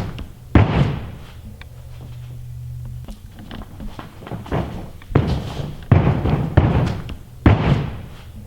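A gymnast's tumbling pass: heavy thuds of hands and feet striking the floor, one about half a second in, then a quick run of four evenly spaced thuds in the second half.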